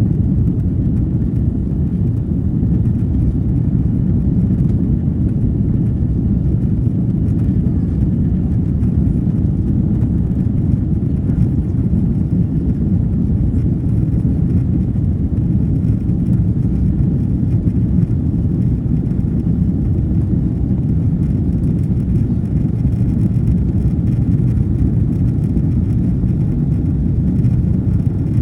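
Steady, low cabin rumble of an Airbus A330-200 in motion, engine and airflow noise heard from inside the passenger cabin.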